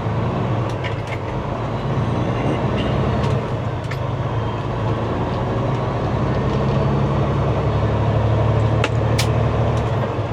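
Semi truck's diesel engine running steadily under way, a low drone with road noise. A couple of sharp clicks come near the end.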